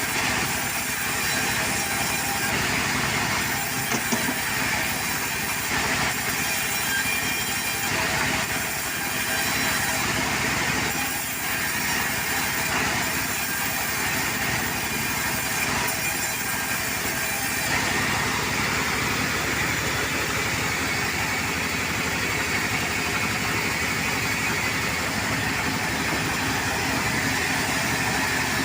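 Portable sawmill running steadily, its engine going without a break.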